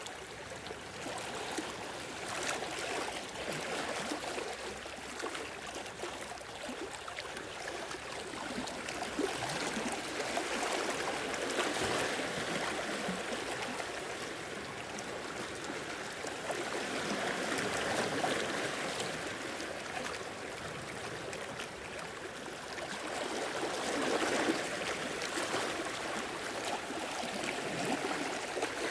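Small sea waves washing and lapping on the shore, the wash swelling and easing every several seconds.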